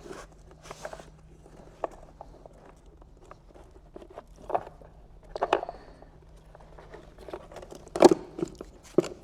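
Scattered light plastic clicks and rustles of a wiring-harness connector being worked by hand as its locking tab is pushed, with a louder sharp knock about eight seconds in.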